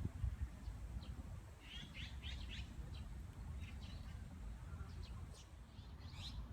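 Small birds chirping: a quick run of five or six short chirps about two seconds in, then scattered single chirps, the last one near the end. A steady low rumble runs underneath.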